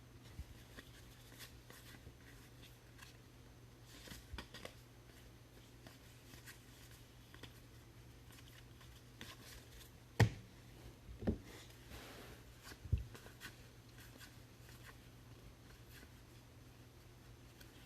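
Faint rustling and small clicks of trading-card packs and cards being handled at a table. Three louder knocks come a little past the middle.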